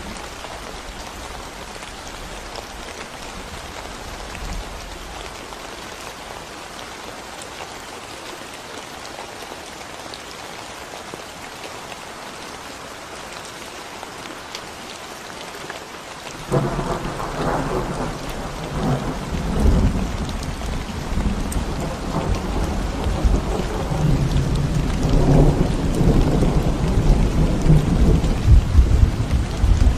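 Steady rain falling on a concrete road. About halfway through, a loud low rumble of thunder starts suddenly and rolls on, growing louder toward the end.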